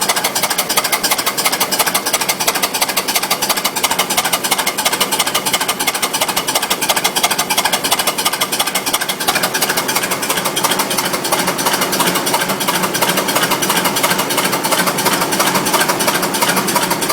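Sentinel-style steam waggon engine running on compressed air, its exhaust beats coming in a fast, even clatter that keeps up steadily throughout.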